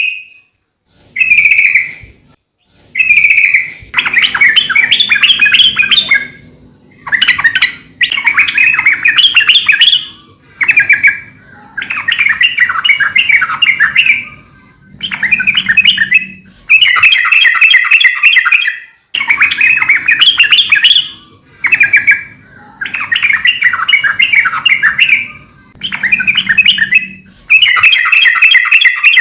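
Yellow-vented bulbul (trucukan) singing in repeated phrases, each one to three seconds long with short pauses between. The first two phrases are short; the rest are longer runs of rapid notes.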